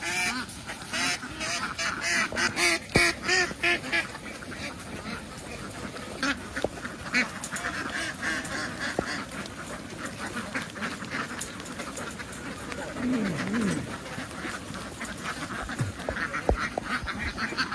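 A large flock of domestic ducks quacking together in a dense, continuous chorus of many overlapping calls, loudest in the first few seconds.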